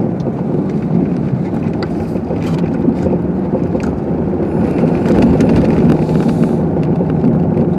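Car driving on a snow-covered street, heard from inside the cabin: a steady engine hum under continuous tyre and road noise.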